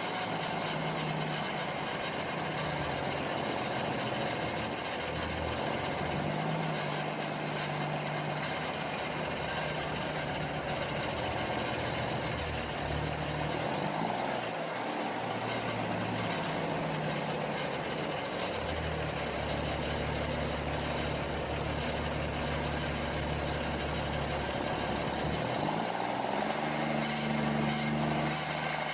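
Semi truck's diesel engine running steadily, its engine speed changing about halfway through and again near the end.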